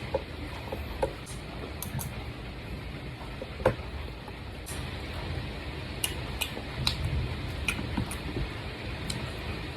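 Scattered light clicks and clinks of kitchen utensils against dishes, about one a second, over a steady low background noise.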